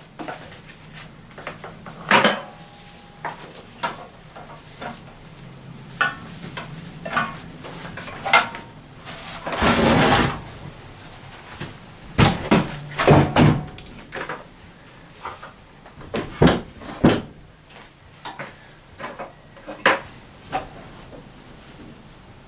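Irregular clanks, knocks and clicks of tools and metal being handled and set down on a workbench while belt sanders are swapped. A short scraping rush comes about ten seconds in.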